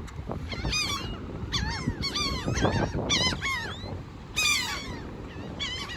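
A flock of gulls calling: many short, harsh, arched cries in quick overlapping series, with a low rumble of wind or traffic underneath.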